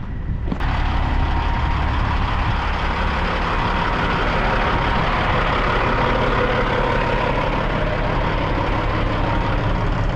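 Heavy truck engine idling, with a loud steady rushing noise that comes on suddenly about half a second in and runs over it.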